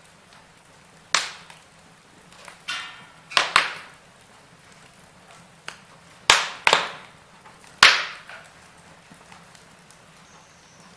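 Wood fire crackling: sharp snaps and pops of burning logs, several of them loud and some in quick pairs, over a quiet background hiss.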